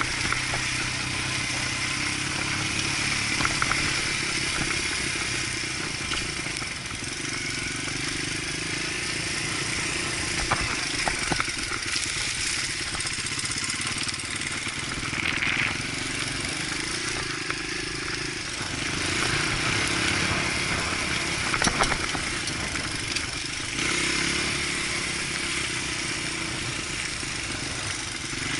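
Dirt bike engine running while riding, its pitch rising and falling as the throttle opens and closes, with scattered clatter and knocks.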